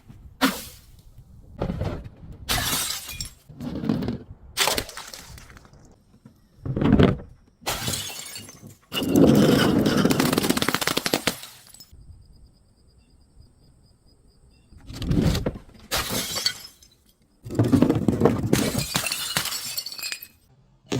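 Glass bottles breaking and being crushed: a series of crunching, shattering crashes, with a longer stretch of dense crunching near the middle, a lull of a few seconds, then more crashes.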